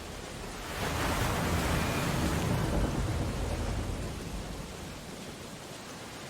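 Steady rain running on window glass, with a storm wave breaking outside about a second in, swelling loud and then fading away over the next few seconds.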